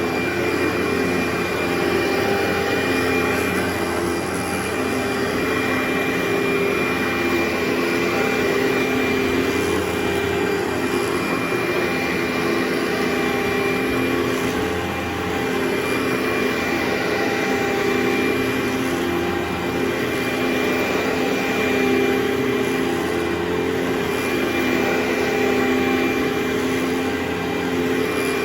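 Carpet-cleaning machine running steadily, a constant motor hum with a thin high whine on top.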